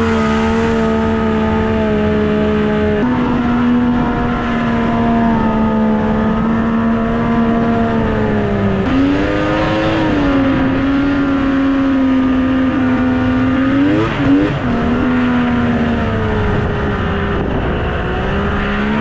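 Snowmobile engine running under load, its pitch stepping and wavering a few times as the speed changes.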